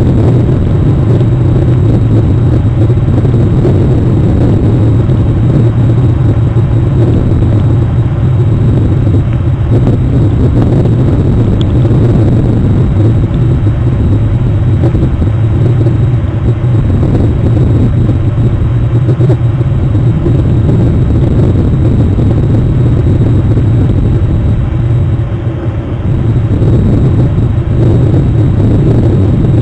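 Steady low rumble of rain on an outdoor webcam microphone, with a faint, thin high whine.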